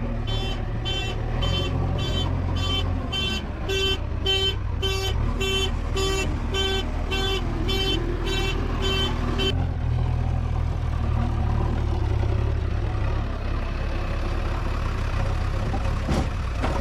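Heavy diesel engine running steadily under a vehicle reverse alarm beeping just under twice a second; the beeping stops after about nine seconds and the engine runs on.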